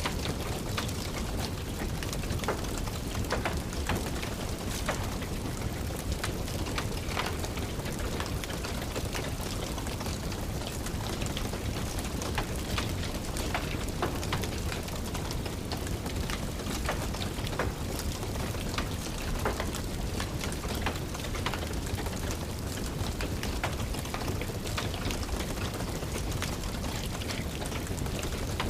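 Steady rain hiss mixed with the crackle of a wood fire in a fireplace, with frequent irregular sharp pops.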